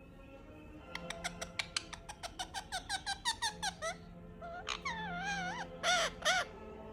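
Pet parrot calling: a rapid run of short squeaky chirps, about five a second, then a wavering whistle, and two loud short squawks near the end.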